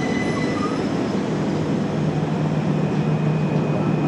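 Class 375 Electrostar electric multiple unit moving slowly alongside the platform: a steady electric traction hum over the rumble of the train running on the track.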